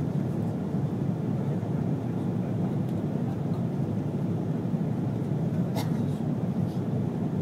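Steady low rumble of an Airbus A330-300 in flight on approach, the engine and airflow noise heard from inside the cabin, with a couple of faint ticks.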